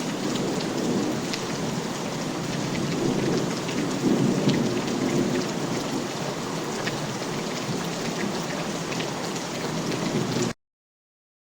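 Steady heavy rain with scattered pattering drops and a low rumble of thunder swelling about four seconds in. The sound cuts off abruptly near the end.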